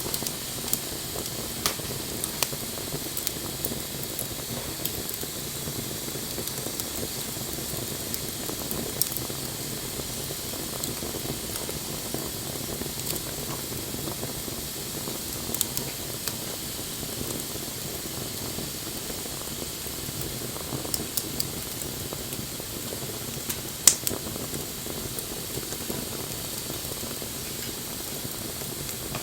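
Wood fire burning with a steady hiss and scattered crackles and pops, the loudest pop about 24 seconds in.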